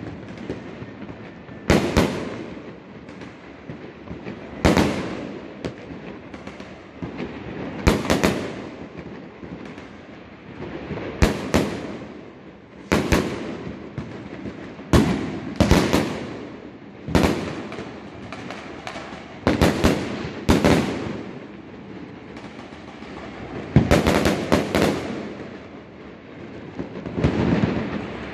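Aerial firework shells bursting overhead: a sharp bang every one to three seconds, sometimes two in quick succession, each trailed by echo, with the bursts crowding closer together near the end.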